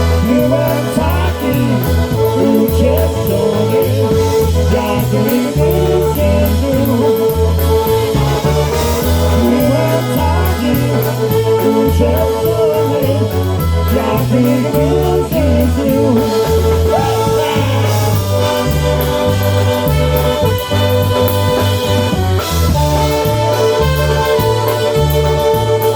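Polka band playing live with a bouncing two-beat bass line under held melody notes.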